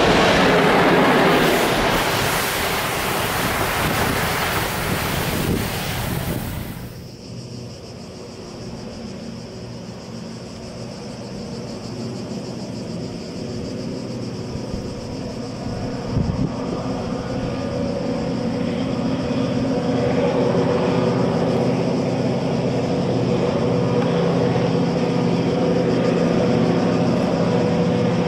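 An HŽ series 1141 electric locomotive passes close by with a loud rushing noise from its wheels and running gear. About seven seconds in the noise drops off sharply, and a distant freight train's steady, humming engine sound takes over and slowly grows louder.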